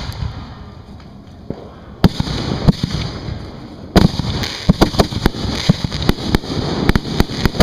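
Display fireworks going off at close range to the firing racks: a few separate bangs, then from about four seconds in a rapid string of many bangs.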